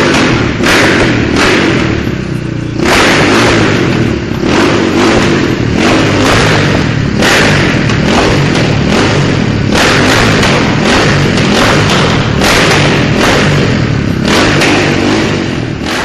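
Husqvarna SM 610 supermoto's single-cylinder four-stroke engine running loudly, its throttle blipped again and again so the exhaust surges every second or so over a rumbling idle.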